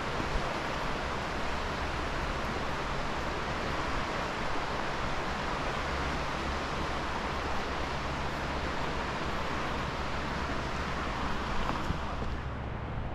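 River water rushing steadily, an even hiss of flowing water; its brighter part drops away suddenly near the end.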